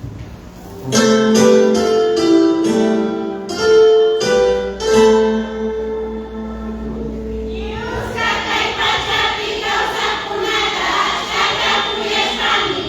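Guitar picking a run of ringing notes and chords. About eight seconds in, a crowd starts clapping and cheering over it.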